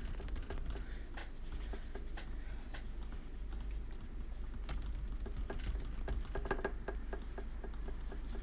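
Light, irregular tapping and scratching of a paintbrush dabbing wet watercolor onto paper, a few small clicks a second over a low hum.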